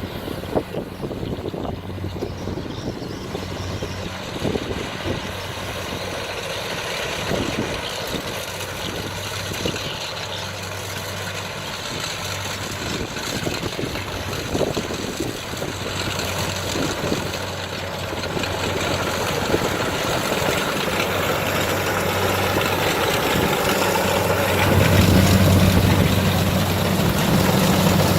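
Kubota DC60 combine harvester's diesel engine and machinery running steadily while it harvests lodged rice, a low engine hum under a wide mechanical noise. It grows louder over the second half, with a stronger low hum near the end.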